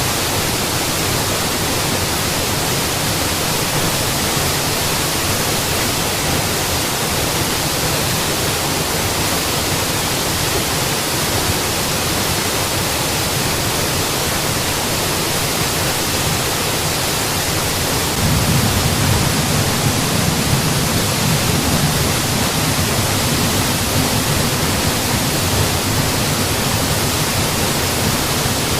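Mountain waterfall: a steady rush of falling water, which grows a little louder and deeper about two-thirds of the way through.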